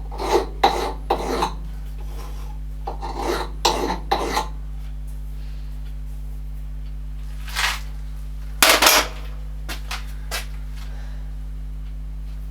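Short scraping strokes by hand: three in quick succession, three more a few seconds later, then a single stroke and a louder one near the end, with a few light clicks. Under them runs a steady low electrical hum.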